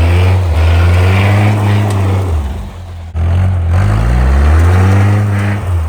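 Nissan Hardbody pickup's freshly swapped engine accelerating hard, rising in pitch through two pulls with a brief break about three seconds in. The engine is running well after the swap.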